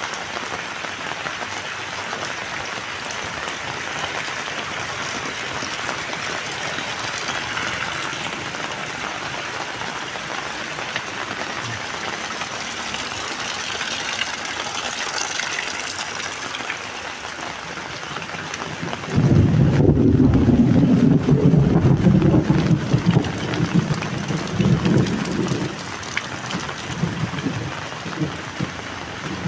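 Heavy rain falling steadily. About two-thirds of the way in, a loud low rumble starts suddenly, lasts several seconds and dies away.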